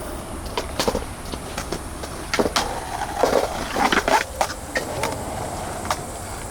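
Skateboards rolling on concrete, with scattered clicks and knocks of boards and wheels, over a steady high-pitched drone of cicadas.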